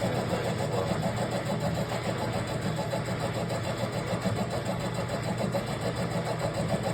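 A motor or engine running steadily, a constant low hum with a fast, even pulsing.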